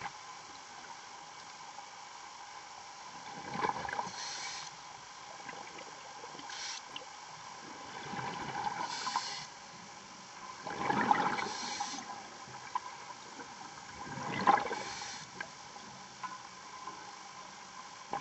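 Diver breathing underwater through a regulator: a breath about every three to four seconds, each a hiss followed by bubbling, over a faint steady hum.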